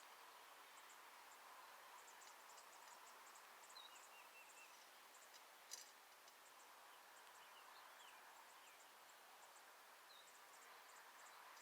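Faint outdoor ambience with scattered short, high chirps and calls of small birds, and one sharp click about halfway through.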